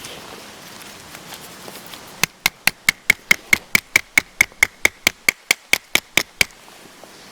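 A hammer driving a metal tent stake into the ground: about twenty quick, even strikes, some five a second, each with a short metallic ring, starting about two seconds in and stopping some two seconds before the end.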